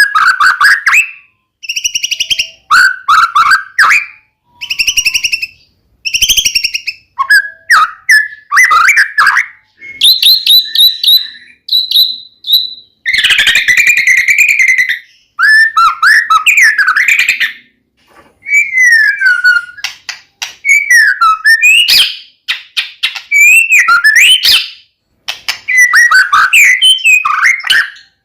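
White-rumped shama (murai batu) singing loud, continuous song in short, varied phrases with brief pauses between them, mixing clear sliding whistles, rapid trills and buzzy notes.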